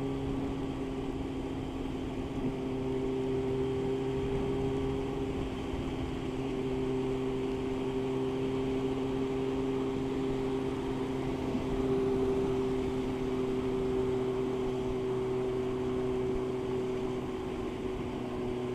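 Motorcycle engine running at a steady cruising speed, its hum holding a constant pitch, under a continuous rush of wind and road noise.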